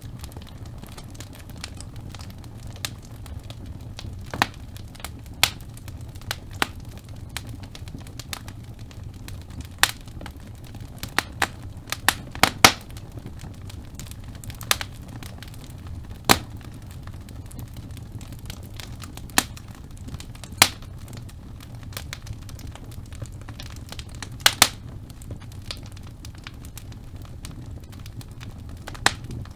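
Wood logs burning in a fireplace: a steady low rumble of the fire with sharp, irregular crackles and pops, loudest in a cluster about midway.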